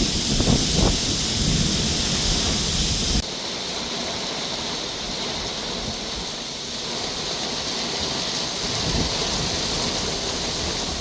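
Heavy rain from a severe thunderstorm, with strong gusty wind buffeting the microphone for about the first three seconds. It then cuts abruptly to a steady downpour hissing, with less wind.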